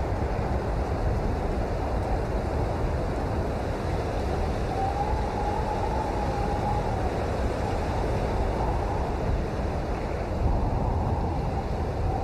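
Steady, even rain noise. A faint wavering tone runs through it and is clearest about halfway through.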